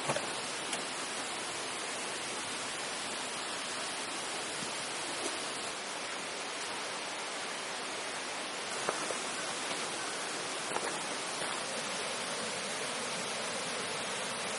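Steady rushing of flowing water, like a forest stream, with a few faint clicks.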